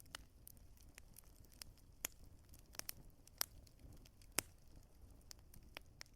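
Wood fire crackling: irregular sharp pops and snaps of burning logs, a few louder than the rest, over a faint low rumble of the flames.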